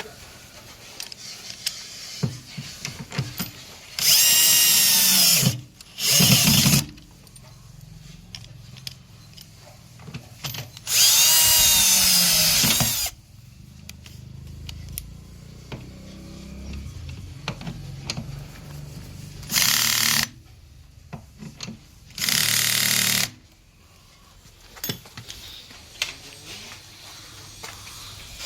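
Electric drill-driver running in five short bursts, its whine rising and falling in pitch as it drives screws home, most likely while the motor is fitted back into a front-load washing machine. Light clatter of handled parts between the bursts.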